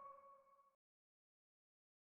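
Near silence: a faint ringing tone dies away within the first second, then dead silence.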